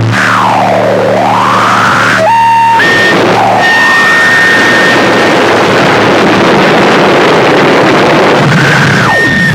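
Harsh noise music: loud, dense static with electronic tones sweeping down and back up over it and a low hum beneath. A high tone holds steady for a couple of seconds about three seconds in, and another tone sweeps down near the end.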